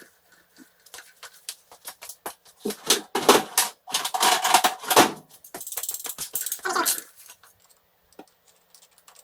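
A quick run of clicks and clattering knocks, densest and loudest a few seconds in, followed by a short hissing rustle and one more clatter.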